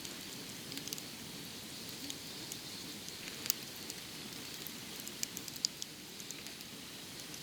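Firewood burning in a campfire, crackling steadily with scattered sharp pops and snaps. The loudest pop comes about halfway through, with a quick run of snaps a little later.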